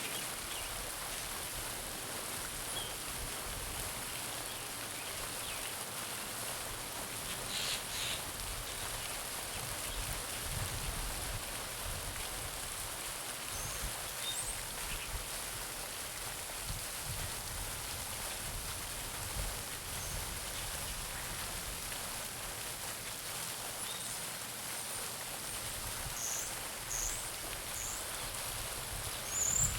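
Garden pond fountain splashing steadily, its water falling back onto the pond surface. Birds chirp briefly now and then, with a few short high chirps near the end.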